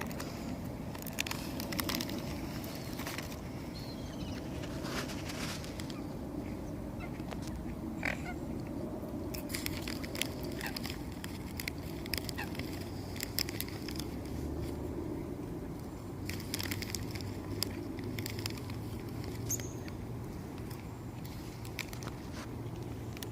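Waterfowl sounds by the water: scattered short clicks and brief calls over a steady low background noise.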